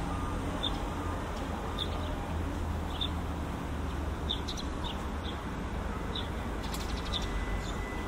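A small bird chirping repeatedly: short, high chirps about once or twice a second, over a steady low rumble.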